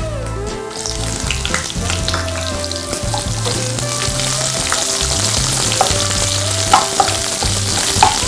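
Sliced onions going into hot oil with dried red chillies, green chillies and curry leaves in a kadai. The sizzle gets louder about a second in, and a wooden spoon stirs and scrapes the pan, with a few sharp clicks near the end.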